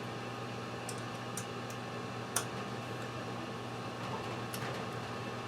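A few small, sharp metallic clicks and ticks, the loudest about two and a half seconds in, from an aluminium camera mount being handled and tightened, over a steady low hum.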